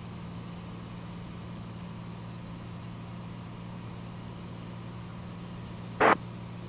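Steady low drone of a light aircraft's engine and propeller in the cockpit, heard faintly through the intercom feed. A short crackle about six seconds in, like a radio keying up.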